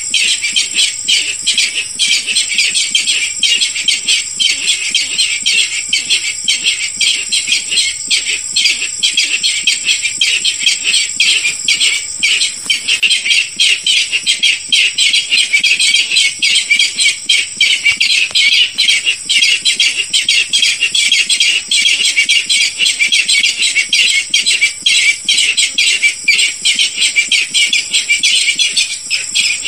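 Barred rail calls: a continuous run of rapid, harsh repeated notes without a break, used as a hunting lure call. A steady high tone runs underneath.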